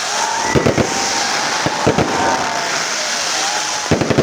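Fireworks going off: sharp bangs about half a second in, again near two seconds, and a quick cluster near the end, over a steady hiss with faint sliding whistles.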